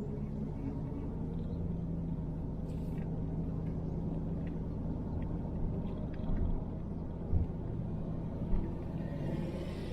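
A car driving slowly, heard from inside the cabin: a steady low engine and road drone with a few soft bumps. Near the end there is a short rise of tyre hiss.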